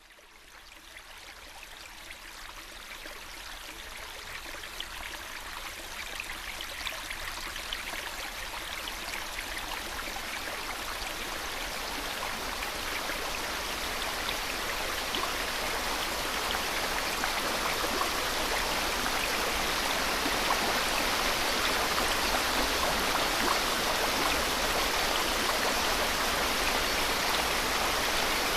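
A steady white-noise hiss with a rushing-water texture that fades in from silence and grows gradually louder throughout.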